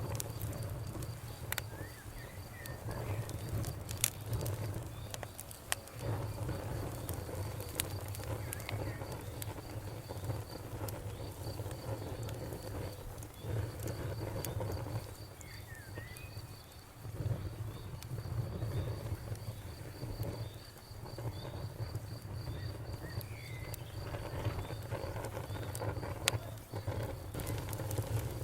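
Campfire burning, with scattered sharp crackles and pops over a steady low rumble. A high, rapidly pulsing chirp runs through most of it and stops near the end.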